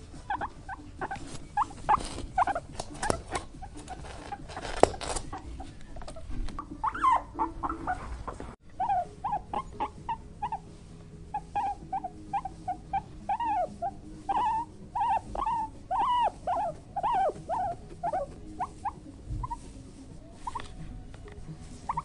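Black bear cub giving short squeaky calls, several a second, each rising and falling in pitch, in repeated runs, with some rustling and clicking in the first few seconds.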